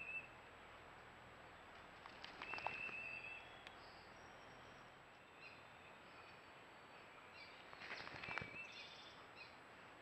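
Faint birdsong: a short trilled call about two seconds in and again near the end, with thin high chirps in between. A few brief scratchy clicks come with the trills.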